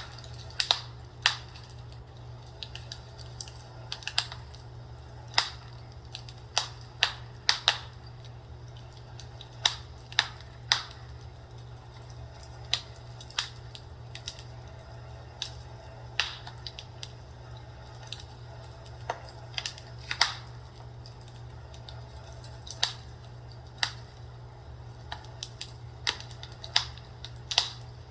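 Wood fire crackling: irregular sharp pops and snaps, a dozen or so louder ones among many small crackles, over a steady low hum.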